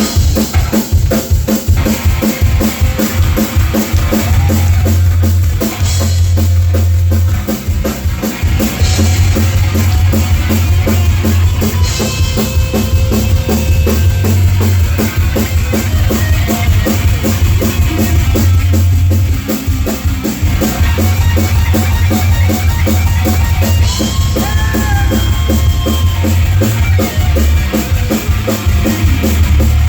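Rock band playing live, an instrumental passage with no vocals: a fast drum kit and heavy bass under distorted electric guitar, loud and steady.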